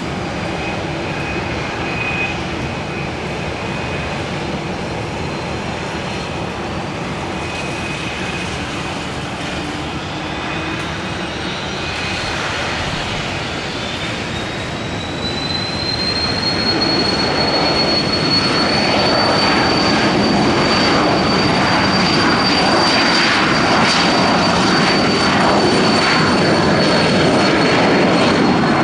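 Aircraft turbine engines running, with a high whine that rises in pitch about halfway through and then holds steady as the engine sound grows louder.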